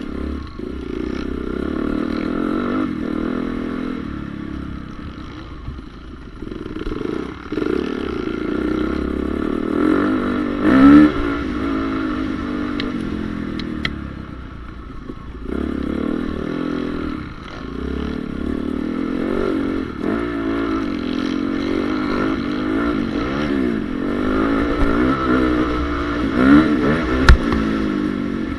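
2014 Honda CRF450R's single-cylinder four-stroke engine revving hard and backing off again and again as it is ridden round a motocross track, the pitch climbing and dropping with each throttle change. A sharp knock stands out near the end.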